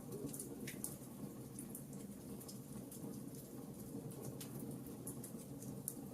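Wood fire crackling, with sharp pops and snaps scattered through it, the sharpest about a second in and near the end, over a steady low rumble of the storm and rain.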